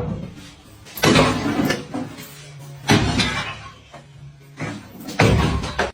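Three heavy bangs, roughly two seconds apart, each trailing off briefly, with a faint low hum between them.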